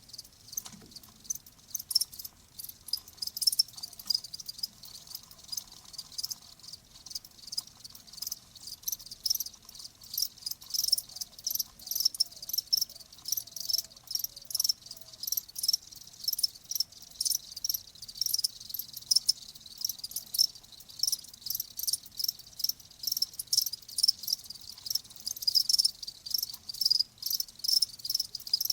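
Crickets chirping: many rapid, overlapping high-pitched chirps running on continuously.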